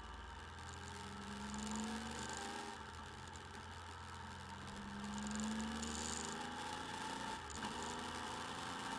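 Motorcycle engine picked up by a bike-mounted camera microphone, rising in pitch as the bike accelerates. The pitch drops briefly about three seconds in and again near the end, as gears change.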